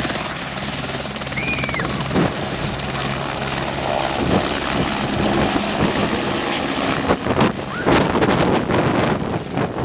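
Helicopter running close by: steady low rotor and engine sound with a high turbine whine that fades out about three seconds in. In the last few seconds, gusts of wind buffet the microphone.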